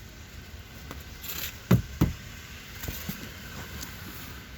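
Rummaging through clothing and gear in a small vehicle cabin while hunting for a lost mitten: cloth rustling and light scraping, with two sharp knocks close together a little under two seconds in.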